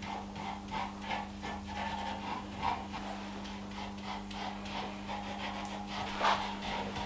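Rhythmic rubbing strokes, about three a second, as boiled linseed oil thinned with mineral spirit is worked into an oak table base. A steady low hum runs underneath.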